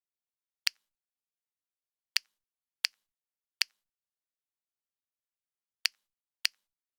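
Six sharp, identical clicks at irregular intervals, with dead silence between them.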